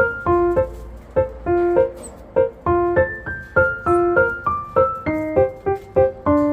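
Background music: a piano playing a bouncy melody of short, evenly spaced notes at a steady beat.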